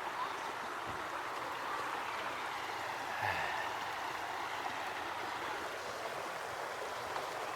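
Shallow stream running steadily over rocks.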